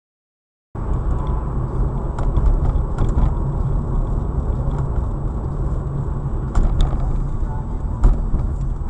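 Silence, then under a second in a car's engine and road noise starts abruptly: a steady low rumble, as heard from a dashboard camera in a moving car, with a few sharp knocks in the second half.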